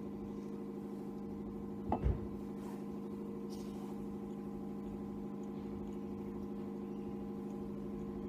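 A car engine idling with a steady, unchanging hum. A single dull thump comes about two seconds in.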